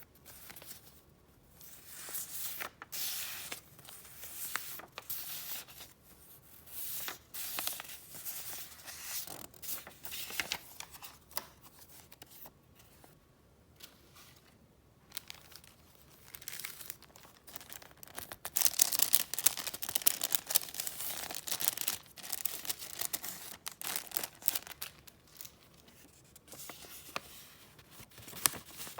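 Paper being handled, in irregular runs of rustling with short pauses in between; the longest and loudest run comes about two-thirds of the way through.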